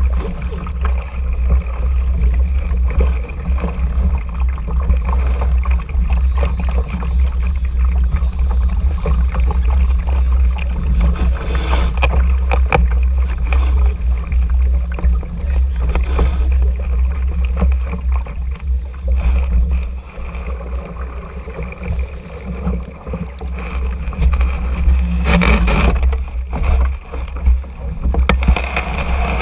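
Small RS Tera sailing dinghy under way, with a steady low rumble of wind on the microphone and water rushing past the hull. A few sharp knocks come about halfway through, and the noise swells near the end.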